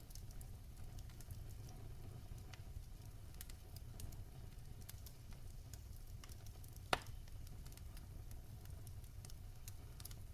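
Fire crackling in a fireplace: a low, steady rumble of flames with scattered small crackles, and one sharp, louder pop about seven seconds in.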